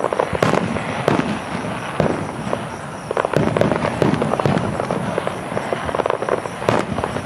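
Fireworks display: a dense run of bursting shells and crackling, with sharp bangs about half a second in, around two seconds in, and near the end.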